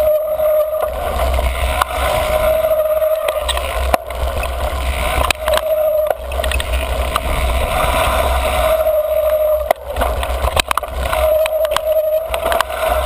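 Mountain bike riding fast down dirt singletrack: wind rumble on the microphone, tyre and trail noise, and sharp rattles and knocks over bumps. A steady squeal comes and goes about five times in stretches of up to a second and a half, typical of the squealy front disc brake being applied.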